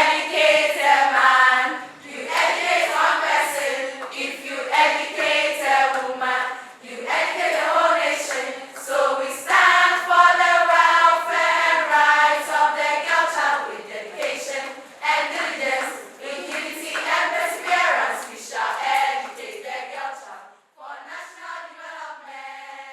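A group of voices singing together as a choir, with sustained, held notes; it drops off sharply about twenty seconds in and goes on more quietly.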